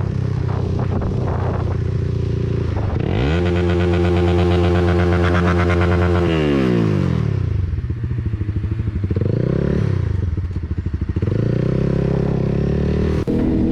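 Motorcycle engine accelerating: its pitch rises sharply about three seconds in, holds high for about three seconds, then falls away as it slows. A shorter rise and fall follows near ten seconds, and it then runs at a steady pitch.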